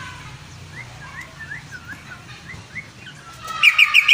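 Green leafbird (cucak ijo) singing: a few soft, short rising chirps, then, about half a second before the end, a loud, fast run of repeated notes breaks out.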